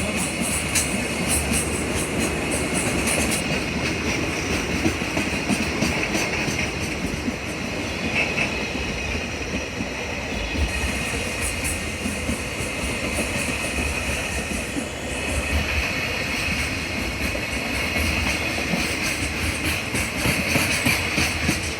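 Freight train hauled by an EF65 electric locomotive rolling past, its wheels clattering steadily over the rail joints.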